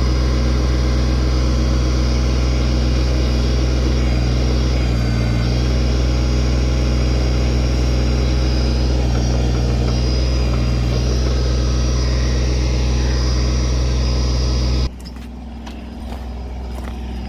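Kubota tractor's diesel engine running steadily at working throttle while the backhoe is operated. About fifteen seconds in it drops suddenly to a much quieter engine hum.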